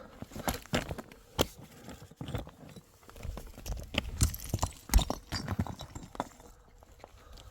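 A run of irregular sharp knocks and clatter, thickest and loudest in the middle, like hard objects or hooves striking on a hard surface.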